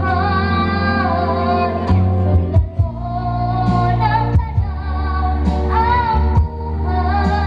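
A young girl singing a melody over backing music with a steady bass line and occasional drum hits.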